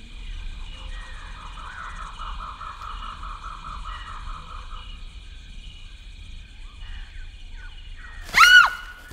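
Birds calling in woodland: one bird repeats a quick note about five times a second for a few seconds over a steady high whine. Near the end a single loud, high cry rises and falls.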